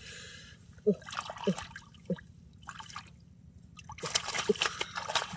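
Shallow muddy water splashing and dripping as fish are grabbed by hand, with a few short low squelches early on and a busy run of splashing from about four seconds in.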